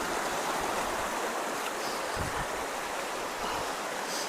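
Fast creek water rushing steadily, pouring through a culvert that has just been cleared of debris.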